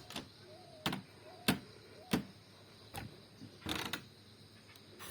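Footsteps on a hard path, five or so sharp steps at walking pace, with faint short chirps in the background.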